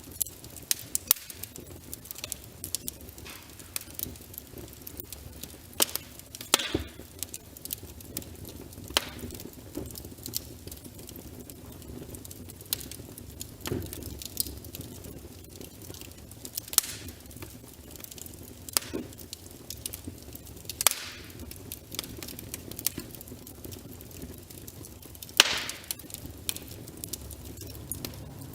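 Burning logs in a fireplace crackling: irregular sharp pops and snaps over a low steady hiss, with a few louder pops, the loudest near the end.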